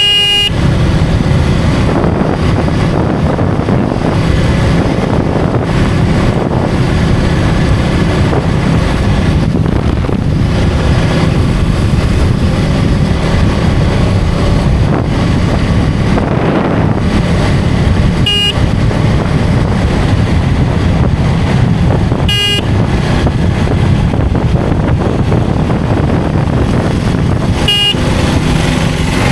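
KTM Duke 250's single-cylinder engine running steadily under way, mixed with wind and road noise. Short vehicle horn beeps sound four times: right at the start, then three more in the second half.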